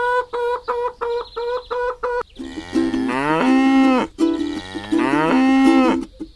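Cow mooing: two long moos, each falling in pitch at the end, over background music. A short note repeats about three times a second before the moos begin.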